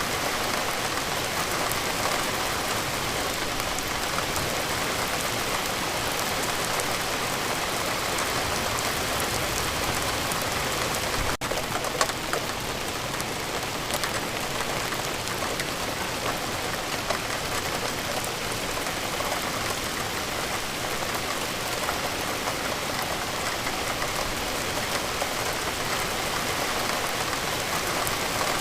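Steady, heavy rain falling, a dense even patter of drops on surfaces. There is a momentary break in the sound about eleven seconds in.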